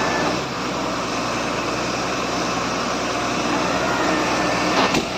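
A vehicle's engine running steadily, with a brief knock just before the end.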